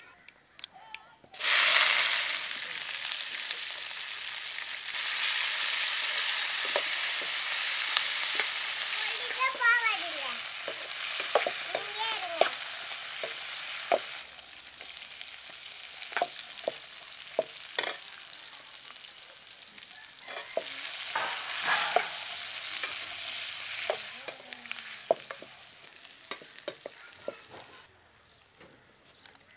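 Cut adamant creeper (pirandai) stems hitting hot oil and mustard seeds in an aluminium kadai: a sudden loud sizzle about a second and a half in, then steady frying that slowly dies down. Clinks and scrapes of a perforated ladle stirring the stems against the pan.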